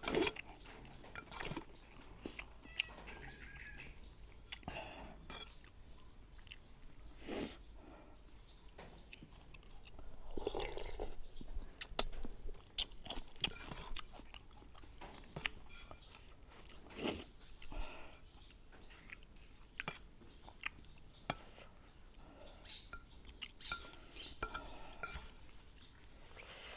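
Close-up eating sounds: a person chewing mouthfuls of tom yum pork noodles, with many scattered sharp clicks and smacks.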